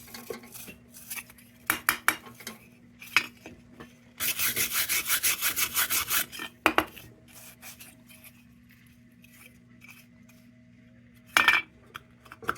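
Sheet-metal lantern parts being handled: scattered light metallic knocks and clinks, a couple of seconds of quick back-and-forth scraping about four seconds in, and a louder knock near the end.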